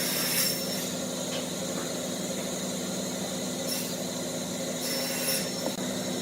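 Wood lathe running with a steady motor hum, with short bursts of hiss as a tool cuts the spinning wood three times.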